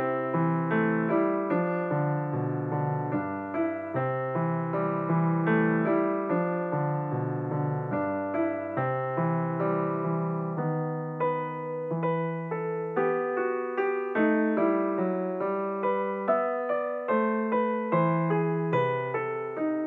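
Background piano music: a gentle keyboard melody of evenly paced notes over sustained low bass notes.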